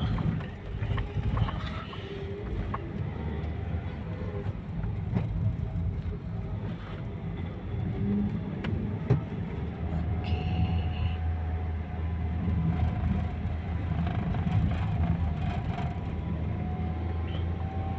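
A vehicle's engine running steadily while driving along, with road noise and a few knocks. The engine note rises slowly over the second half as the vehicle gathers speed.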